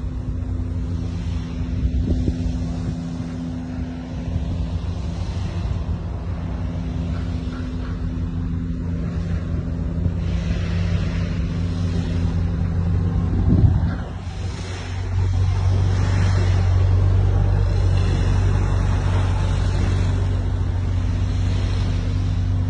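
Truck engine running steadily with road noise. There is a short knock about thirteen seconds in, after which the low engine sound gets louder.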